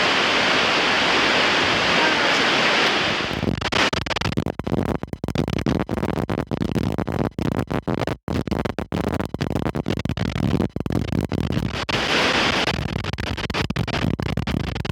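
Strong wind rushing steadily for the first few seconds. Then it buffets the microphone in a choppy, cutting-in-and-out stretch, and the steady rush returns near the end.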